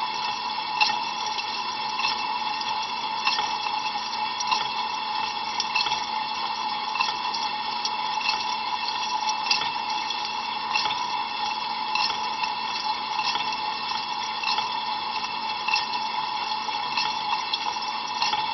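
Ariston LV 46 A IX dishwasher rinsing with cold water, heard from inside the tub: a steady rush of spray with frequent sharp splashes of water hitting the walls, over a steady low hum.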